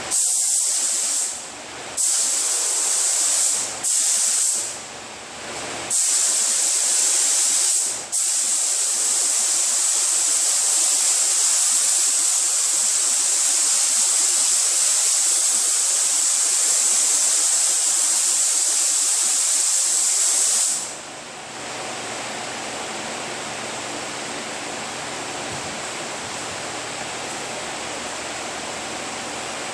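Compressed air hissing from a hand-held air gun, triggered in several short bursts and then held for one long pull of about thirteen seconds before cutting off. A quieter steady rushing noise carries on underneath and after it.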